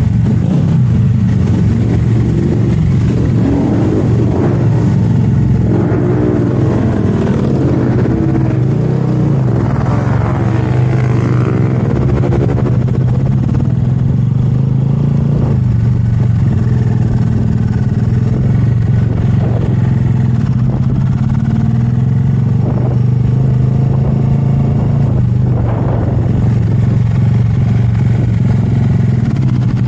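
Motorcycle engine running steadily at a constant drone, with the revs wavering up and down for a few seconds about a quarter of the way in.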